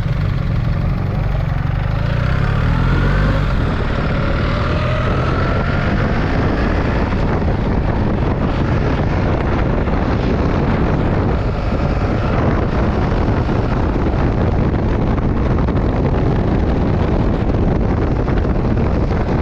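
Motorcycle engine accelerating, its pitch rising over the first few seconds, then running steadily at speed under heavy wind and road noise.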